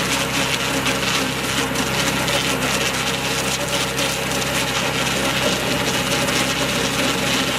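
Sawmill machinery running steadily, with wood scraping and rubbing over a constant machine hum: logs passing through a ring debarker that scrapes off the bark.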